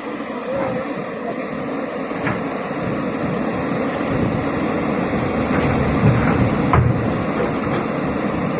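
Excavator's diesel engine running steadily under load, with a couple of sharp metallic knocks.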